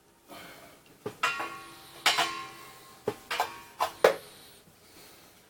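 A series of sharp metallic clinks and knocks, some of them ringing briefly, as small metal parts are handled and set down.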